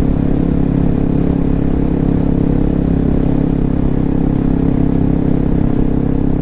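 Honda CRF250L's single-cylinder four-stroke engine, breathing through an aftermarket FMF Q4 exhaust, pulling at steady revs with an even, unchanging note. It is held back from high revs because the engine is still being run in.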